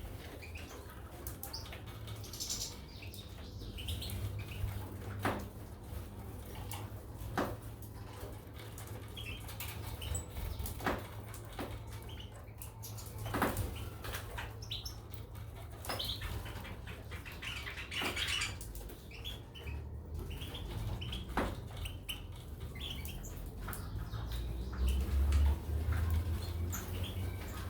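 Caged goldfinches and canaries moving about: wing flutters, scattered sharp clicks and brief short chirps, over a low steady hum.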